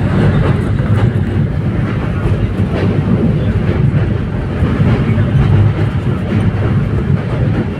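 Train running on its rails: a steady, loud low rumble with faint scattered clicks of the wheels over the track.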